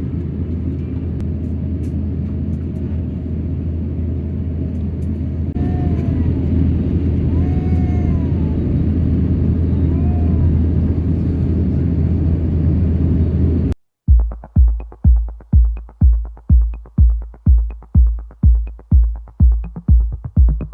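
Steady low rumble of cabin noise inside an Airbus A350 airliner, with a few faint rising-and-falling tones in the middle. About fourteen seconds in it cuts off abruptly to electronic music with a thudding bass beat about twice a second.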